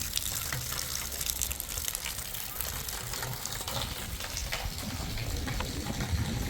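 Water running and splashing: a steady hiss with many small ticks and a low rumble underneath.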